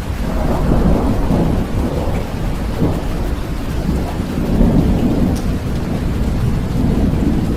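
Steady rain with a long roll of thunder that builds about half a second in and rumbles on, rising and falling in waves.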